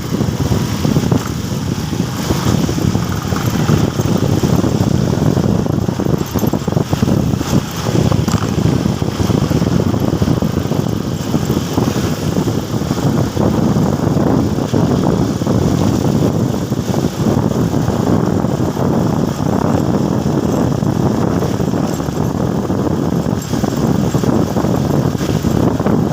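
Motorcycle on the move: a steady engine and road rumble with wind buffeting the microphone.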